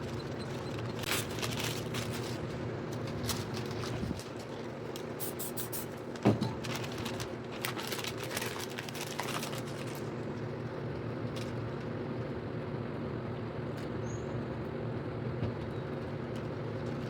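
Short hissing bursts from spray-paint cans, over a steady machine hum. The bursts cluster in the first ten seconds, with one louder knock about six seconds in.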